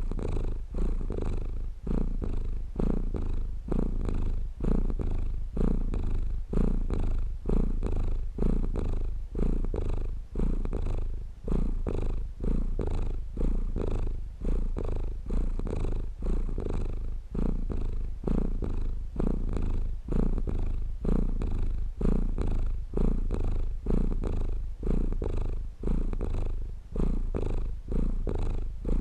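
Domestic cat purring steadily and close up, a low rumble that swells and eases in pulses roughly once a second with each breath in and out.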